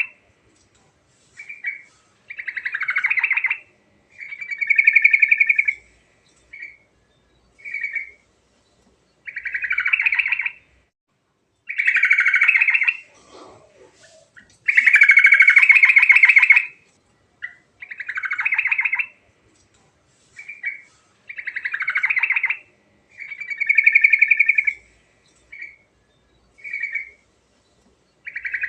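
Yellow-vented bulbul (trucuk) singing its rolling, bubbly song: a string of liquid phrases about one to two seconds long, with short single notes in the gaps between them.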